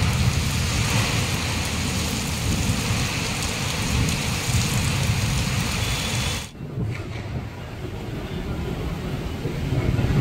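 Heavy rain hitting a car, a dense hiss over a deep low rumble. About six and a half seconds in it cuts out abruptly, then comes back duller, with less hiss.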